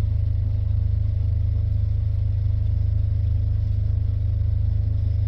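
Diesel engine of the river tug RT-178 running steadily at a constant speed: a deep, even drone with a fine rapid pulse and no change in pitch.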